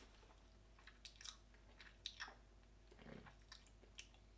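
A person chewing a soft, chewy cola-flavoured taffy candy with the mouth closed: faint, wet mouth clicks and smacks at irregular intervals.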